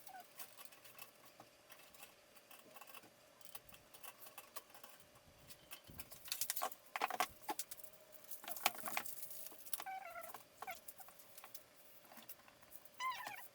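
Clicks, taps and scrapes of computer parts and screws being handled during a PC case swap, busiest midway through, with a few short squeaky chirps near the end and a faint steady hum underneath.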